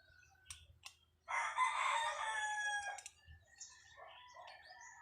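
A rooster crowing once, starting a little over a second in and lasting about a second and a half. A couple of faint clicks come before it.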